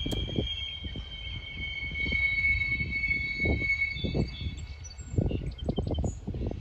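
A freight train passing, with a steady high-pitched squeal over an uneven low rumble; the squeal fades out about four seconds in.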